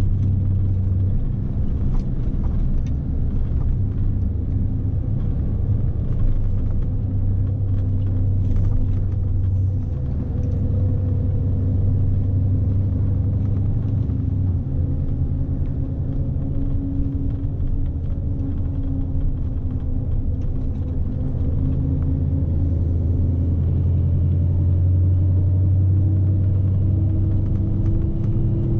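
Scania S520 truck's V8 diesel heard from inside the cab, a steady low drone with road rumble. The engine note rises gradually over the last several seconds.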